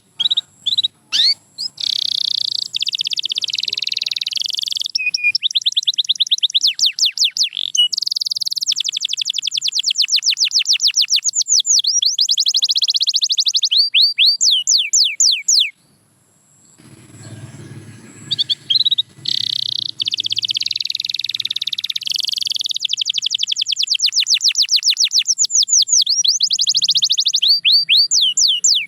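Domestic canary singing two long song phrases of rapid trills and repeated downward-sweeping notes, with a break of about two seconds in the middle.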